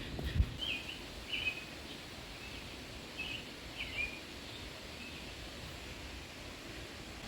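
A bird giving a string of short chirps, about one a second, over a steady outdoor background hiss. There is a single low thump just after the start.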